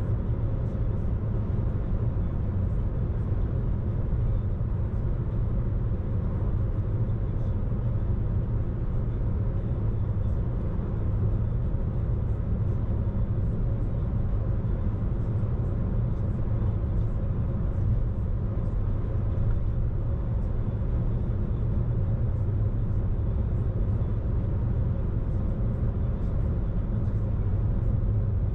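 Car driving along at a steady pace: an even, low rumble of engine and road noise that doesn't change.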